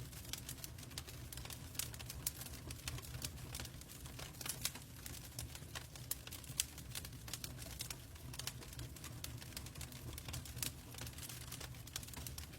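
Log fire in a fireplace crackling, with many small sharp pops at irregular intervals over a low, steady rumble of burning.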